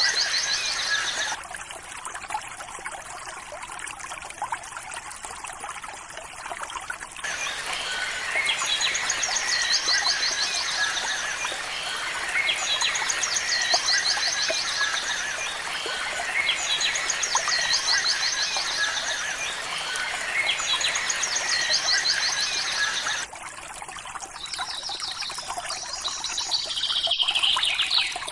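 Wild birds singing in a dense outdoor chorus. One bird repeats a short, rapid, high trill every few seconds over steady chirping, and near the end a call glides downward. The chorus cuts in and out abruptly a few times.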